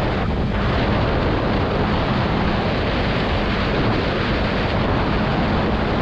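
Heavy, steady wind rush on a GoPro microphone with no windscreen while riding a Yamaha R3 sport bike, the parallel-twin engine heard only as a faint steady hum underneath.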